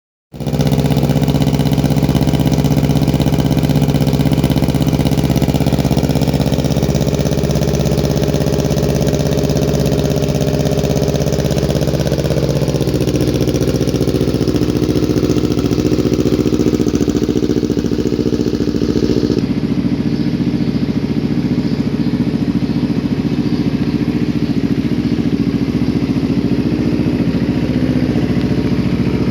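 Kawasaki Ninja 250FI's parallel-twin engine idling steadily through an ICM full-system aftermarket racing exhaust. The exhaust note shifts and settles about twelve seconds in.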